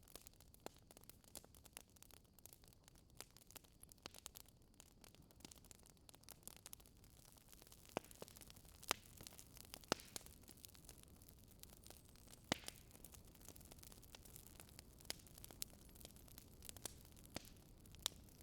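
Faint crackling of a wood fire in a fireplace: irregular sharp pops and snaps over a soft hiss, with a few louder snaps in the middle.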